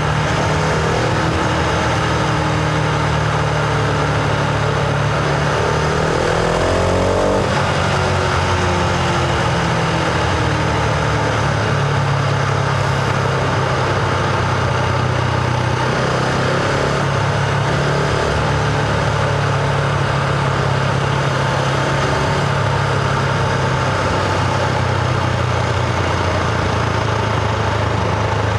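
Husqvarna Vitpilen 701's single-cylinder engine running under way, with a steady rush of wind noise. About six seconds in, its pitch climbs, then drops sharply at about seven and a half seconds.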